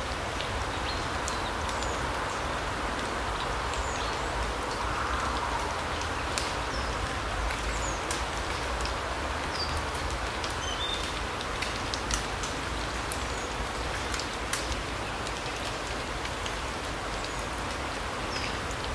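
Steady light rain in a larch forest: an even hiss with scattered drops ticking, and a few short high bird chirps.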